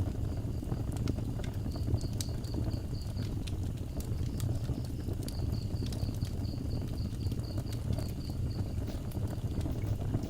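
Wood fire crackling with frequent sharp pops over a low steady rumble. Behind it, a night insect chirps in trains of rapid, even, high-pitched pulses.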